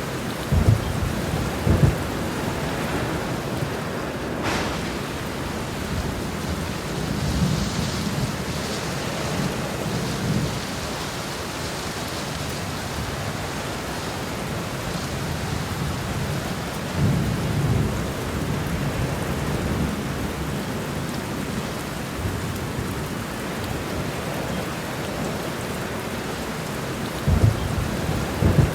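Heavy rain falling steadily, with rolling thunder rumbling in low swells several times and one sharp thunder crack about four seconds in.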